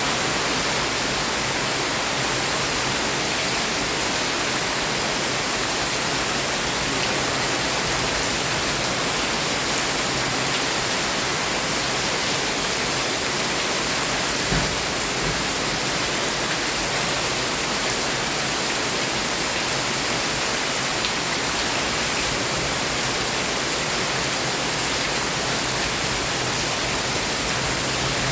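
Heavy rain pouring steadily as an even hiss, with one brief dull thump about halfway through.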